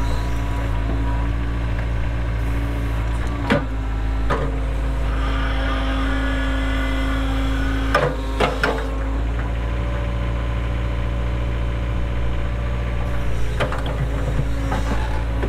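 Cat 307 mini excavator's diesel engine running steadily. A higher whine rises over it for a few seconds about five seconds in, and several sharp knocks and clanks come through, a few in the first half and a cluster near the end.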